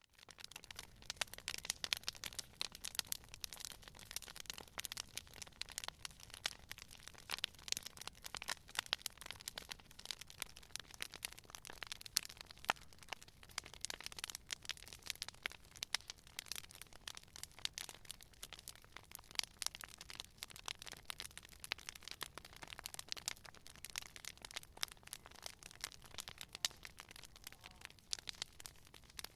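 Wood campfire crackling: a dense, irregular run of sharp snaps and pops from burning wood over a soft low rush of flame.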